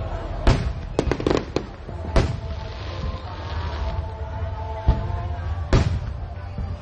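Aerial fireworks bursting: sharp bangs, a quick run of them about a second in, then single bangs spaced a second or more apart, with a brief crackle between. Background music with held tones plays underneath.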